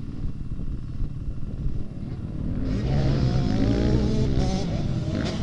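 Motocross bike engines running on the track: a low rumble, then from about halfway in a louder bike engine revving up and down as it accelerates and shifts.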